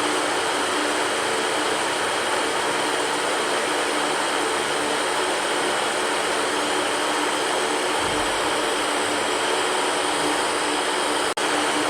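Electric fan running steadily: an even whooshing hum with a faint steady tone under it. It cuts out for an instant near the end.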